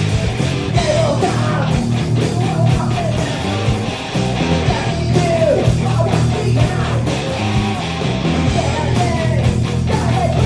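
Live rock band playing loudly: electric guitars, bass guitar and drums.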